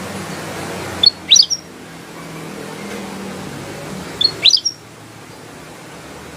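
Kutilang emas bulbul singing: two short, bright phrases of quick rising notes about three seconds apart, over a steady low background hum.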